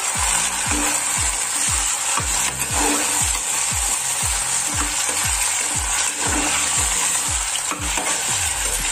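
Chopped green beans sizzling in hot oil in a pressure cooker while a spatula stirs and scrapes them through fried onions. A steady low beat of background music runs underneath.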